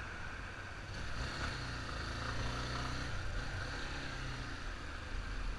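Yamaha Fazer 250 single-cylinder engine running steadily, with a constant hiss of wind over it.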